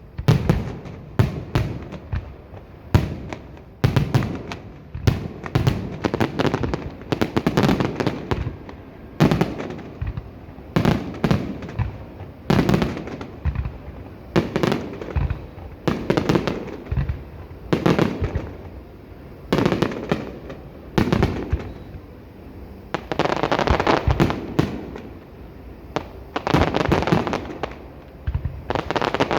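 Aerial fireworks bursting in a steady barrage of booming bangs, often several a second, each trailing off in an echo, with denser bursts of crackle near the end.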